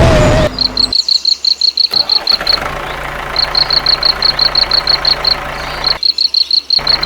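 Rapid high-pitched chirping, about five even chirps a second, in runs that stop and restart, over a steady low hum.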